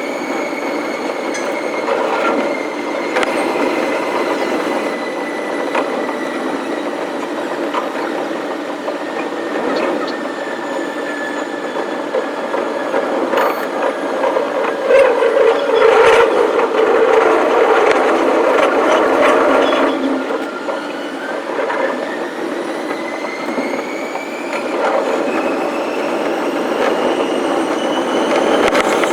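Electric commuter train running on rails, with a motor whine that falls slowly in pitch and then rises again in the last third as the train picks up speed.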